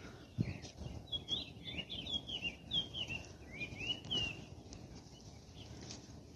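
A small songbird singing a rapid run of short, high chirping notes for about three seconds, starting about a second in, over low background rumble.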